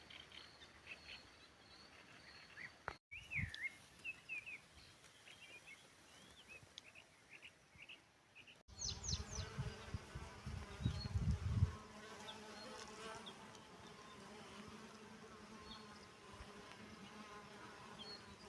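A flying insect buzzing close by: a steady, droning hum that comes in after a cut about nine seconds in. Before it there are scattered high bird chirps, and for a few seconds after the buzz starts there is a louder low rumbling noise.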